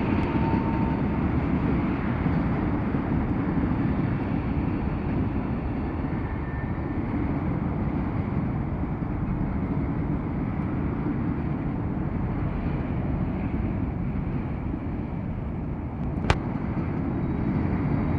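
CSX grain train rolling past: a steady low rumble of freight-car wheels on the rails, with one sharp click about sixteen seconds in.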